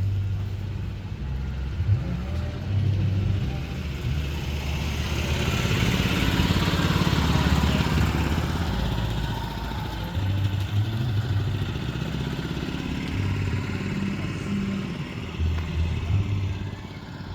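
A motor vehicle passes by, its noise swelling to a peak about halfway through and then fading, over a steady uneven low rumble.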